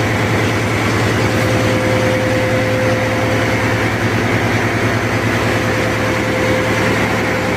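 Marine diesel engine running steadily, heard close up in a ship's engine room: a loud, even, rapidly pulsing drone with a steady hum above it.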